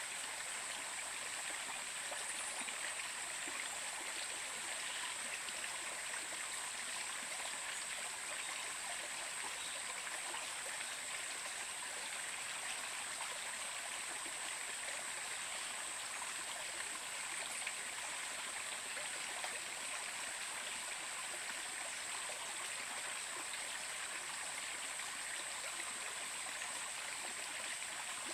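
Stream water running and splashing steadily.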